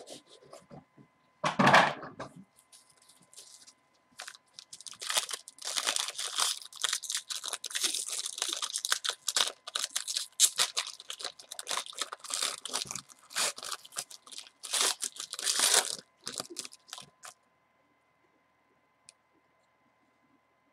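Wrapping on a sealed trading-card box being torn open and crumpled: irregular crackling and tearing for about twelve seconds, then it stops. A short thump comes about two seconds in.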